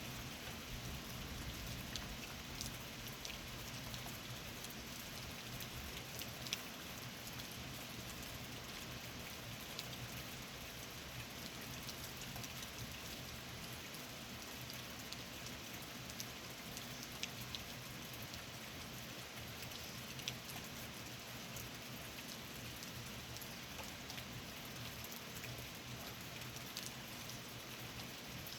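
Steady rainfall during a summer thunderstorm, with scattered single drops ticking sharply on a nearby surface. No thunder is heard.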